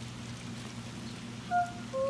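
Kulning, a woman's high herding call: a short, high held note about one and a half seconds in, over a steady background hiss.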